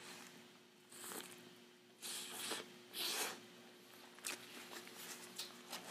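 Close-miked chewing of a mouthful of bacon-and-pineapple cheeseburger: three soft, wet bursts of chewing in the first few seconds, then lighter mouth clicks and smacks.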